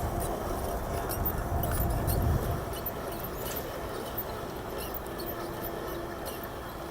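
Radio-controlled scale crawler driving off-road: small electric motor and geared drivetrain whining faintly, with scattered ticks and crackles from the ground under its tyres. A low rumble drops away about two and a half seconds in.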